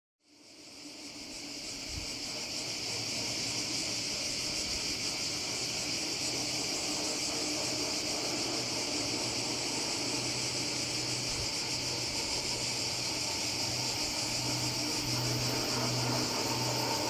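Insects buzzing steadily and high in the summer heat. A low pulsing hum from an approaching train grows over the last several seconds.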